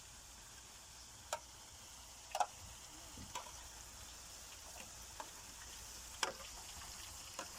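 Potato chips frying in hot oil over a wood fire: a steady faint sizzle broken by a few sharp pops.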